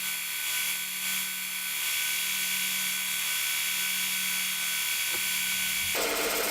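An electric power tool running steadily with a high whine over a constant hum. About a second before the end it cuts over abruptly to a different, lower-pitched machine sound.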